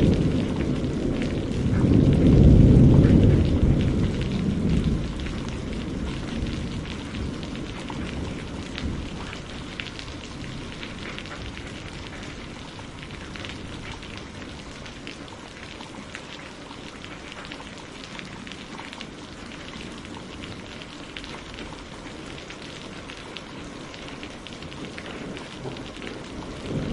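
Steady rain pattering on a greenhouse, with a low rumble of thunder swelling about two seconds in and dying away over several seconds; another rumble begins right at the end.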